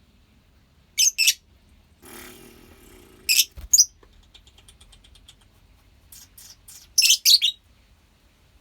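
Lovebirds calling: short shrill chirps, mostly in quick pairs, about three times, with a brief rattling noise about two seconds in and soft rapid chattering between the calls.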